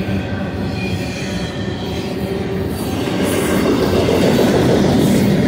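Loaded double-stack intermodal well cars of a freight train rolling past at track speed: a steady rumble of steel wheels on rail with a thin whine over it, growing louder about three seconds in.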